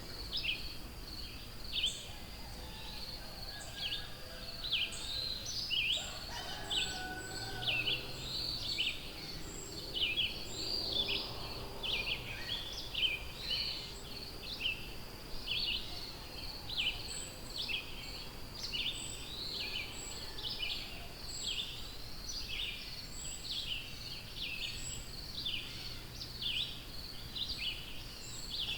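Birds singing in a forest: a dense, continuous stream of short, high chirps, several a second, with a few lower calls mixed in a few seconds in.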